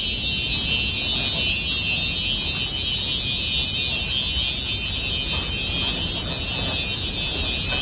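An alarm sounding continuously as one steady, high-pitched tone, over low rumbling noise.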